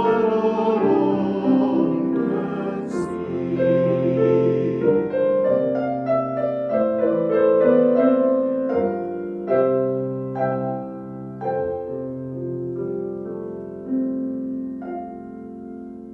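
Piano music: singing with piano accompaniment ends in the first couple of seconds, then the piano plays on alone, its notes growing sparser and fading toward the end.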